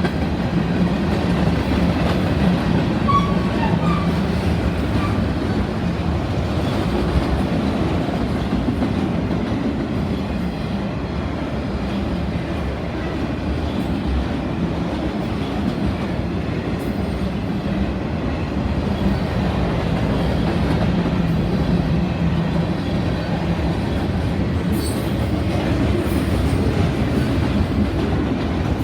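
Freight cars of a mixed freight train rolling past, with a steady rumble and the clickety-clack of steel wheels over the rails.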